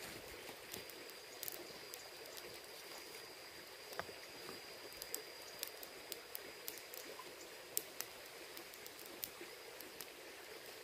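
Faint outdoor background: a quiet hiss with scattered sharp clicks and crackles, and a thin steady high-pitched tone that fades out about halfway through.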